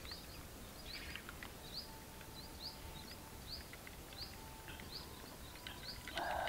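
A bird repeating a short, high, rising chirp about once a second, faint against quiet outdoor background noise, with a brief louder sound near the end.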